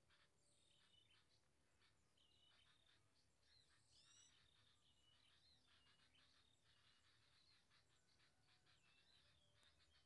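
Faint, high-pitched chirps and twitters of small birds: many short calls and quick rising and falling notes, coming one after another.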